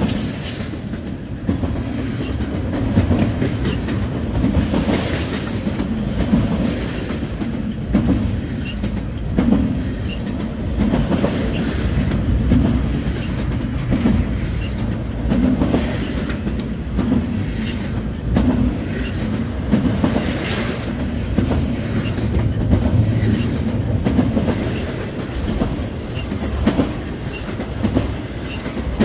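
A train passing on the track, with a steady low rumble and the wheels clicking over rail joints.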